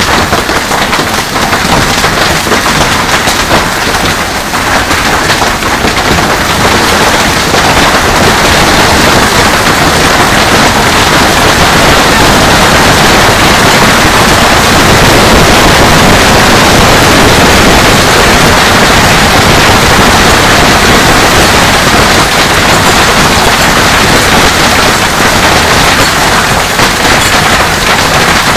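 Hailstorm: hailstones pelting hard surfaces in a dense, continuous clatter, heavier from about seven seconds in.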